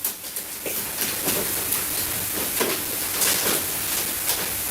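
Vacuum-sealer pump running steadily with a hissing rush of air as it draws the air out of a food bag, with scattered short crackles through it.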